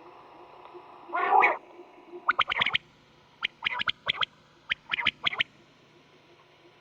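Quail calling: one buzzy low note about a second in, then three quick runs of short, sharp notes.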